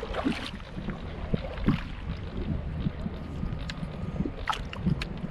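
Wind buffeting the microphone on a kayak on open water, a steady low rumble, with a few short knocks and taps scattered through it.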